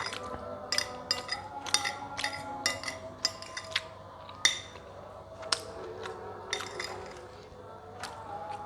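Eating utensils clinking against dishes: about a dozen sharp, ringing clinks at an irregular pace, the loudest one about halfway through.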